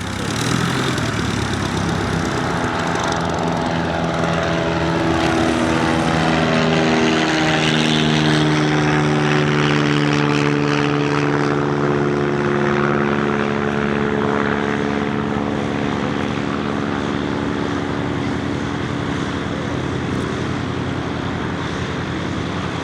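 Light propeller aircraft's piston engine passing close by: the engine note drops in pitch as it goes past, a few seconds in, then settles into a steady drone that fades slightly.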